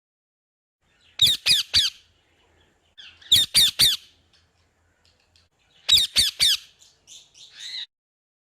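A parrot squawking in three bursts, each of three quick, harsh calls, followed by a few softer notes near the end.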